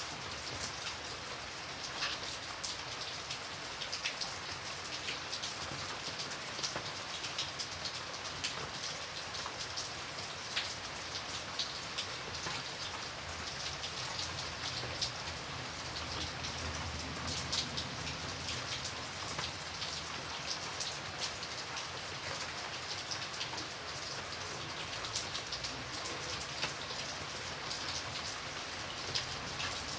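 Steady rainfall: an even hiss of rain with many separate close drops striking sharply.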